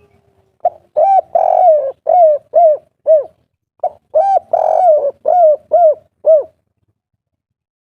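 A spotted dove (tekukur) sings its 'kuk 3' coo twice. Each phrase opens with two short notes and a longer drawn note, then ends in about three short clipped 'kuk' coos.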